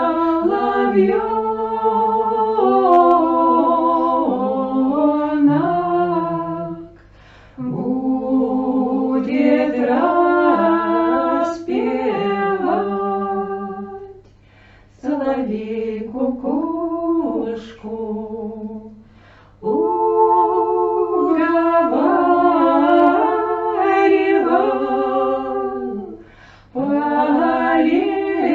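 A small women's folk ensemble singing an old Russian song a cappella in several-part harmony. The voices sing in long phrases with short breaths between them.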